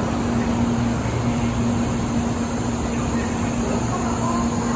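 N700A Shinkansen train rolling slowly past the platform as it pulls in: a steady rumble with a low, even hum.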